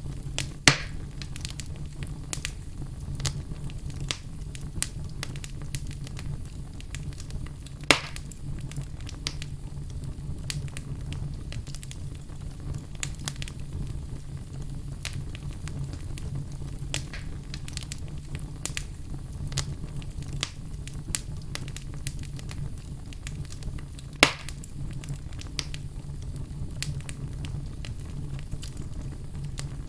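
Wood fire burning in a fireplace: continuous crackling with many small snaps over a steady low hum, and three louder pops, about a second in, at about eight seconds and about two-thirds of the way through.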